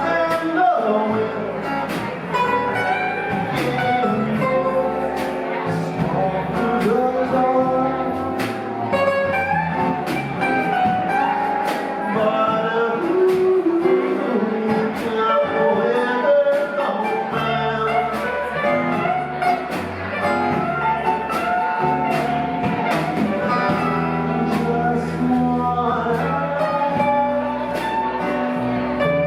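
A live rock band playing: guitar lines over bass and drums.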